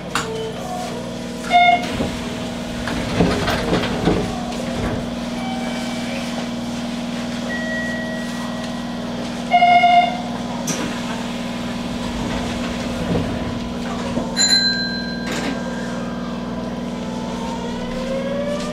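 Hanshin electric train standing at a station platform with a steady equipment hum, broken by a few short electronic beeps. Near the end the traction motors' whine starts to rise in pitch as the train pulls away.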